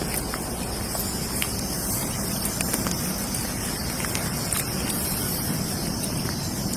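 Steady hissing noise with a low rumble underneath and scattered faint clicks, unchanging throughout.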